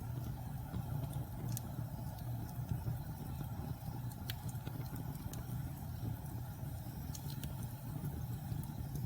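Log fire burning in a fireplace: a steady low roar from the flames with scattered sharp crackles and pops from the wood, about one every second or two.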